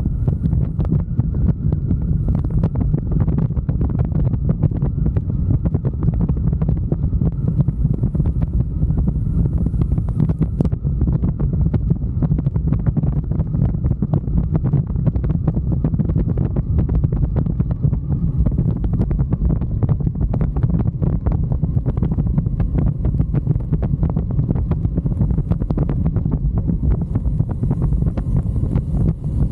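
Heavy wind buffeting on the microphone of a moving motorcycle: a steady low rumble with constant irregular crackle, and no pause in it.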